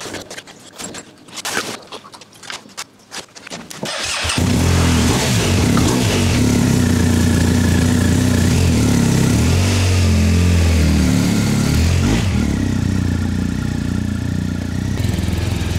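Light clicks and knocks of hands fitting a plastic cover and its screw, then, about four seconds in, the BMW R1250GS Adventure's boxer-twin engine comes in loud and runs steadily as the motorcycle rides slowly forward, its pitch rising and falling a little.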